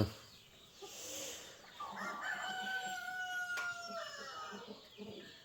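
A rooster crowing once: one long, drawn-out call starting about two seconds in, held level and dropping in pitch at the end.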